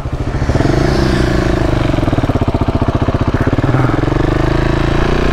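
KTM 690 Enduro's single-cylinder engine pulling away, growing louder in the first half second, then running steadily under way.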